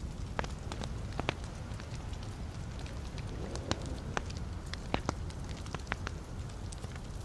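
Wood fire burning in a fireplace: a steady low rumble of flames with scattered sharp crackles and pops from the burning logs, one or two a second.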